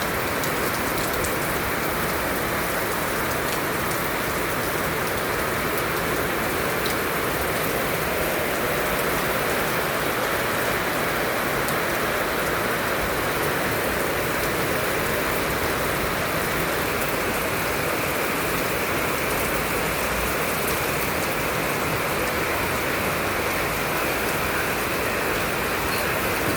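Heavy rain pouring, a steady even hiss of falling water that neither builds nor eases.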